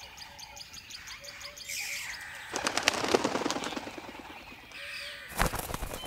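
Songbird chirps and twittering over short, low repeated calls, with a dense burst of rapid fluttering clicks in the middle and a sharp, loud flutter a little before the end.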